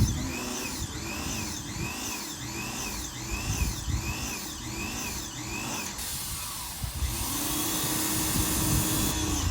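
Small electric pressure washer running, its motor whining in a regular pulse about twice a second. About six seconds in, a loud spray hiss and a steady hum take over, then cut off just before the end.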